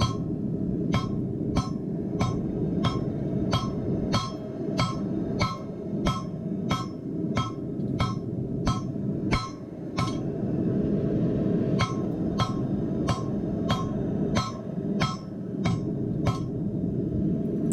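Hand hammer striking hot steel on a railroad-track anvil at about two ringing blows a second, drawing out a taper, with a short pause about halfway. A steady low rush runs underneath.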